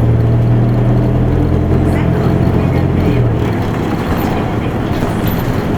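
Isuzu Erga Mio bus's four-cylinder turbo diesel heard from inside the cabin, running under way with a low, steady engine drone that eases off about three seconds in.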